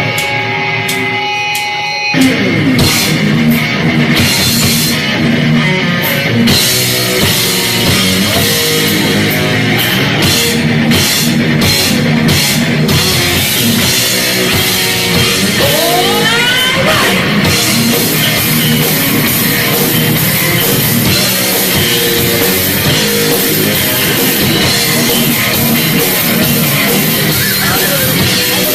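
Heavy metal band playing live, electric guitars and drum kit: a couple of seconds of held guitar notes, then the full band comes in hard. About two-thirds of the way through a guitar sweeps up in pitch.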